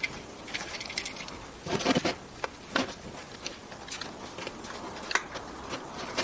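Scattered light clicks and knocks of small wooden pieces being handled and set down, with a cluster of stronger knocks about two seconds in.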